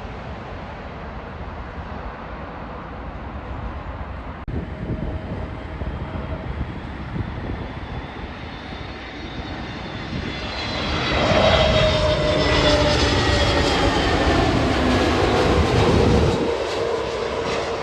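Jet airliner passing close by. The engine noise builds to a loud rumble about ten seconds in, with whining tones falling in pitch as it goes past, and the deep rumble drops away shortly before the end.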